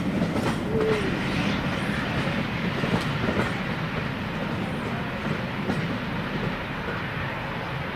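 Train rolling past, its wheels clicking over the rail joints, the sound easing slightly toward the end.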